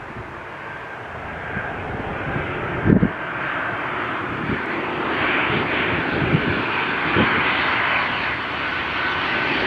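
Airliner engines growing steadily louder as an aircraft approaches, with a faint steady whine. A few short low thumps stand out, the loudest about three seconds in.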